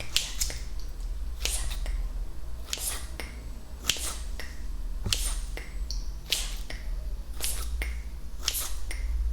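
Close-miked ASMR mouth sounds: sharp, wet-sounding mouth clicks and smacks, often in close pairs, about one pair a second.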